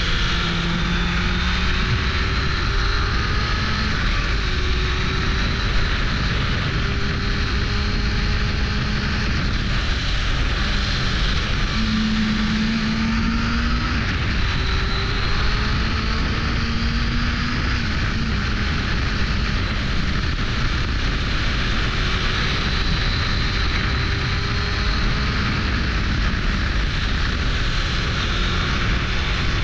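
1998 Suzuki GSX-R 600 SRAD's inline-four engine running under way, its pitch rising in several stretches with short breaks between, over a steady rushing noise of wind.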